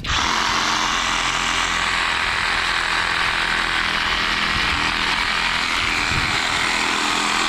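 Skil cordless reciprocating saw starting up suddenly and running steadily as it cuts into a tree.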